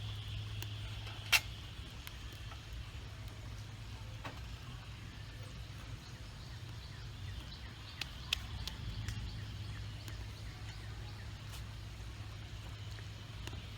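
Wood fires burning in two rocket stoves: a steady low rumble with scattered crackles and pops, the loudest a sharp snap about a second and a half in and two more about eight seconds in.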